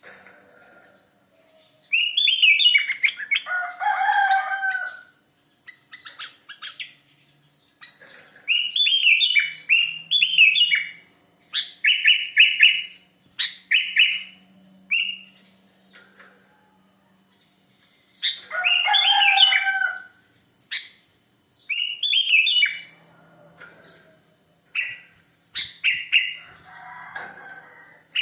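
Sooty-headed bulbul (kutilang) singing in full voice: a run of short warbled phrases, each a second or two long, with brief pauses between them.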